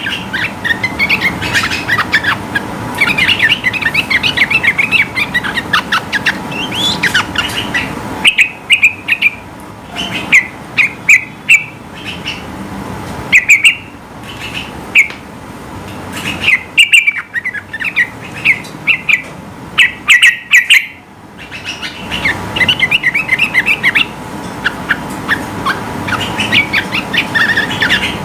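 Yellow-vented bulbul (trucukan) in full energetic song, giving fast bubbly chirping phrases. From about eight seconds in to about twenty-one seconds, the song breaks into loud separate short bursts with pauses between them, then returns to rapid continuous chatter. A faint steady hum lies underneath.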